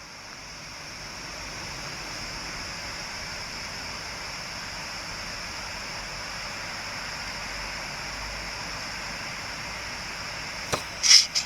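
A steady hiss of noise, like rushing water, with a brief loud burst of sound near the end.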